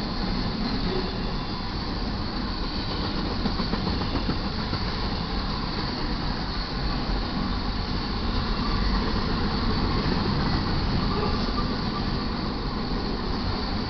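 Cars of an intermodal freight train rolling steadily past: wheels on rail, a continuous rumble with no pauses.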